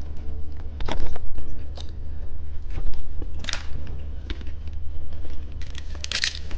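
Close-up clicks and crackles of candy and its plastic packaging being handled, turning into a burst of wrapper crinkling near the end, over a steady low hum.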